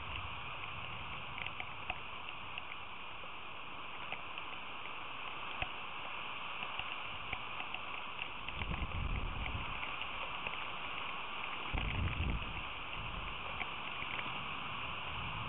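Rain falling steadily: a constant hiss with many small drop clicks. Low rumbling swells come in about nine seconds in and again around twelve seconds.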